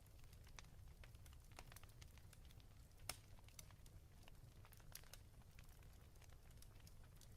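Faint crackling of a wood fire: scattered irregular snaps and pops over a low steady rumble, one snap a little louder about three seconds in.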